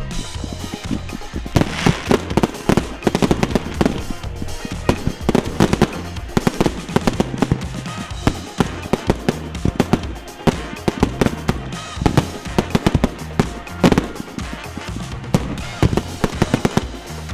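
Fireworks going off in rapid, repeated bangs and crackles, with music playing underneath.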